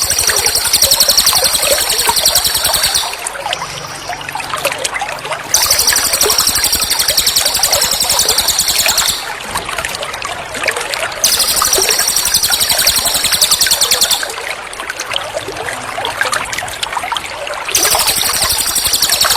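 A songbird's very high, rapid trill ('tembakan'), played as a training recording for a white-rumped shama: bursts of about three to four seconds repeat at even spacing, three times with a fourth starting near the end. Under it runs a steady trickling-water sound.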